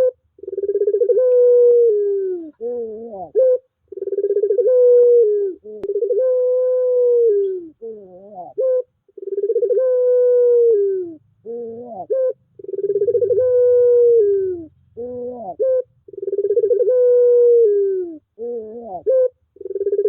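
Puter pelung dove cooing: long drawn-out coos repeated every few seconds, each led in by short rising notes and ending in a falling tail. It is a lure call, played to set a dove that has stopped cooing into song.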